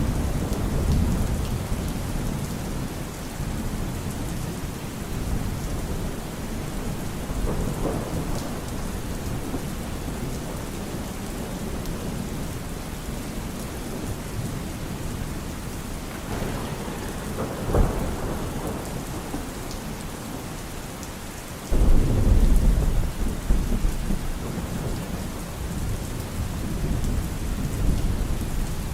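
Steady rain falling through a thunderstorm, with repeated rolls of rumbling thunder. A sharp crack comes about 18 seconds in. A louder, sudden peal comes about 22 seconds in and rumbles on for several seconds.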